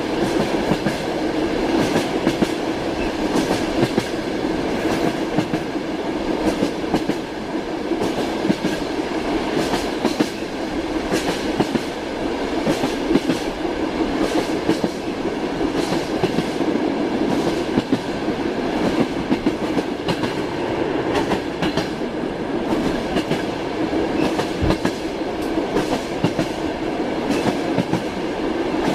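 Train wheels clattering over rail joints, a steady running rumble broken by frequent sharp clicks.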